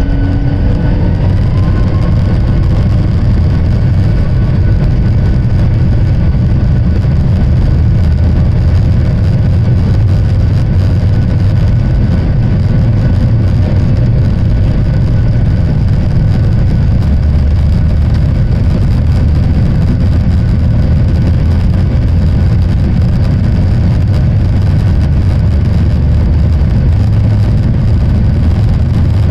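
Boeing 737-800's CFM56 jet engines running at high power as the airliner departs: a loud, steady noise with a deep rumble. A whine rises in pitch in the first second or so.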